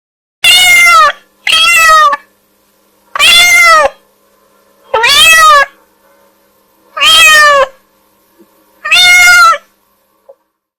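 Domestic cat meowing six times, each meow a short call that rises and then falls in pitch, with gaps of one to two seconds between them.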